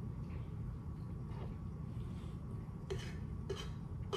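Soft chewing with a few faint mouth clicks, a couple of them about three seconds in, over a steady low hum.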